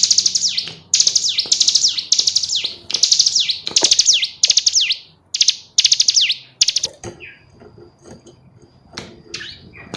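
Female ciblek gunung (a prinia) calling: loud bursts of rapid, high chattering trills, each made of quick downward-sweeping notes and repeated about every half second or so. The bursts stop about two-thirds of the way through, leaving only a few faint chirps.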